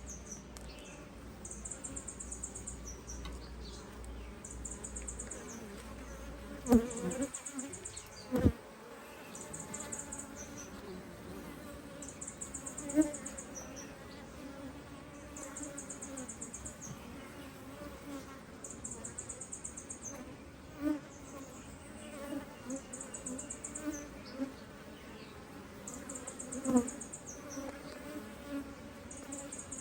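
Honeybee colony buzzing as the hive box is opened, with a few sharp knocks of the hive being handled. A high pulsed trill repeats in short bursts every couple of seconds.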